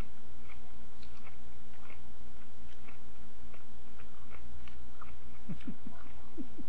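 Raw peeled rhubarb stalk being chewed: a run of crisp crunches, about two a second. Near the end come a few brief low mouth sounds.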